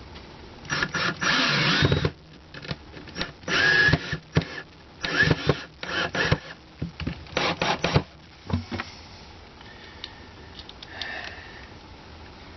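Power drill run in about four short bursts over the first eight seconds, with a brief rising motor whine in some bursts, then quieter handling sounds.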